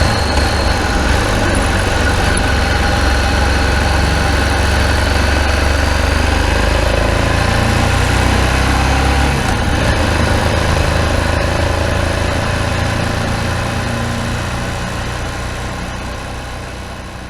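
Ducati Multistrada 1000DS's air-cooled L-twin engine running through its re-installed exhaust, now fitted with new gaskets, as a steady low rumble. The rumble changes about nine seconds in, then fades out over the last few seconds.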